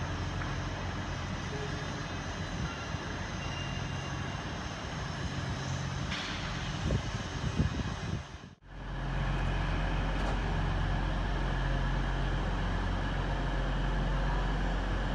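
Railway station sounds: a Class 387 electric train running along the lines, with a few clicks and knocks. About halfway through there is a sudden cut, then a steady low hum of trains standing at the platforms.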